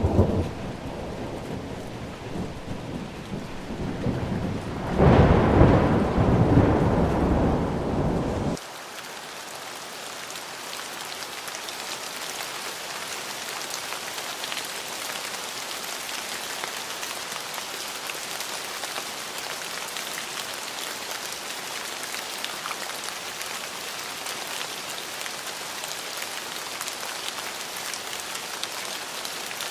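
Thunder rumbling over rain, with a louder roll about five seconds in. The rumble cuts off abruptly at about eight and a half seconds, leaving a steady hiss of heavy rainfall.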